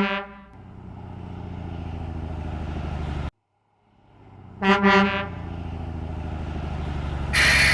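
Truck sound effects: a horn honks, then a truck engine runs with a steady low rumble that cuts off suddenly about three seconds in. After a brief silence the engine starts up again with a second honk, and a loud burst of hiss comes near the end.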